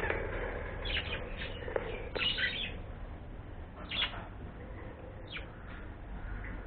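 A bird giving several short chirps, about a second apart, over a faint steady low hum.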